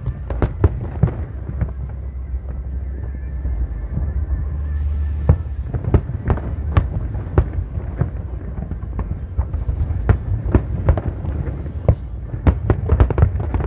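Aerial fireworks bursting in a rapid, irregular string of sharp bangs and crackles over a steady low rumble. The bangs come thicker near the end.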